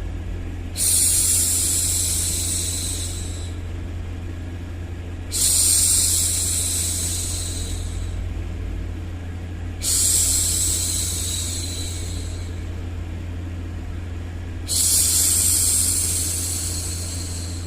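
A woman's voice hushing 'shhh' four times, each shush lasting a few seconds and fading away, about every four and a half seconds. Underneath runs a steady low hum.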